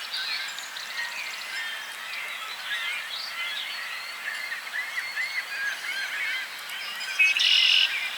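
Many birds calling at once in a dense chorus of short, overlapping chirps and honk-like calls. About seven seconds in, one louder, harsh call lasts under a second.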